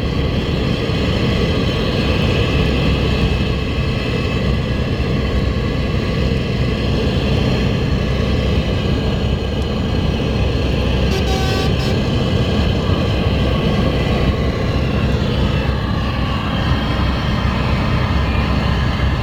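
Scania truck's diesel engine running steadily at road speed as it overtakes, with tyre and road noise. A brief hiss sounds a little after the middle.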